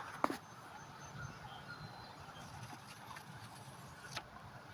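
Faint outdoor background with a few faint, short, high chirps and one sharp click just after the start.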